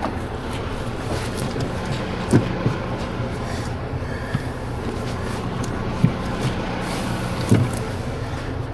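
Diesel truck engine idling steadily, with a few short sharp knocks and clanks from the load-securing work, the loudest about two and a half seconds in and near the end.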